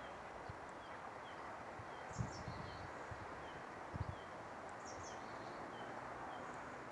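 Birds chirping outdoors, with one short high chirp repeated about every half second and a few brighter calls, over a steady hiss of background noise. Two low thumps are heard, about two and four seconds in.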